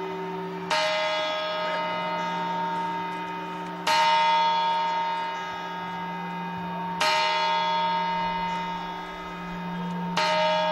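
A large clock bell striking the New Year's midnight chimes (campanadas), four strikes about three seconds apart, each ringing on and fading slowly before the next.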